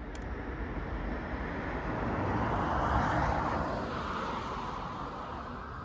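A car passing by, its road noise swelling to a peak about three seconds in and fading away, over a steady low rumble of wind on the microphone while cycling.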